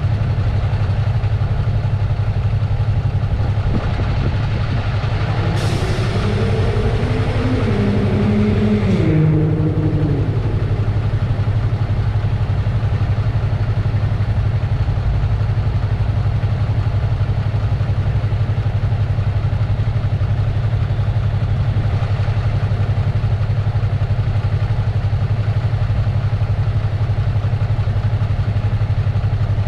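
Yamaha MT-03 motorcycle engine running steadily. From about five to ten seconds in, a second engine-like sound rises over it with a hiss, its pitch stepping down before it fades.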